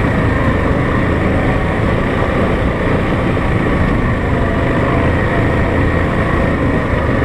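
ATV engine running steadily at a cruising pace while riding a trail.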